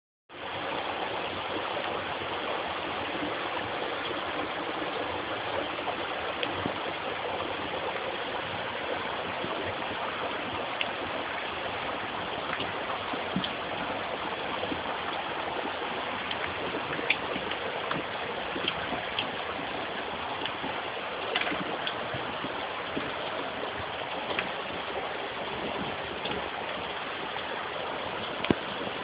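Fast-flowing, roaring floodwater stream formed by heavy rain, rushing steadily, with faint scattered ticks and splashes in it.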